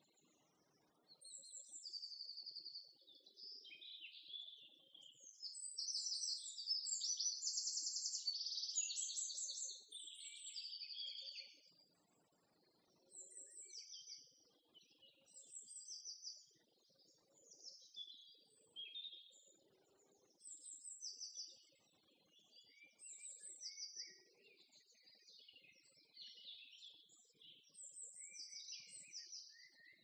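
Songbirds singing: quick, high chirps and trills, busiest about six to eleven seconds in.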